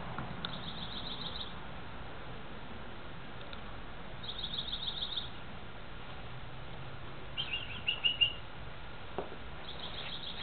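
A small songbird singing four short, rapid trilled phrases a few seconds apart. The third phrase is a little lower and the loudest.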